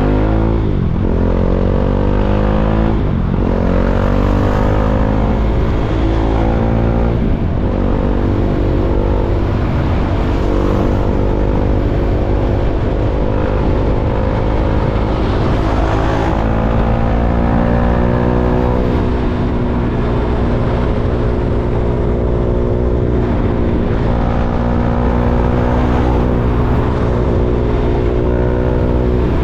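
KTM Duke 390's single-cylinder four-stroke engine accelerating, its pitch climbing and dropping back several times as it runs up through the gears, then settling to a steadier cruise with small rises and falls over the second half.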